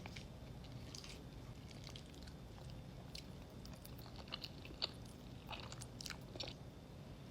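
Close-miked eating: chewing and biting with irregular small crunches and wet clicks.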